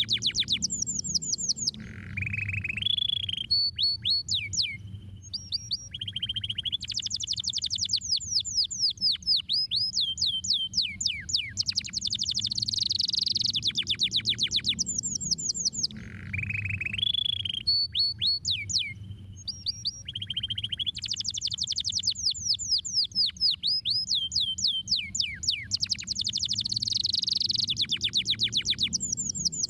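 Domestic canary singing a long song of rapid trills, rolls and fast descending notes, high-pitched, over a low background hum. The same sequence of phrases comes round again about halfway through.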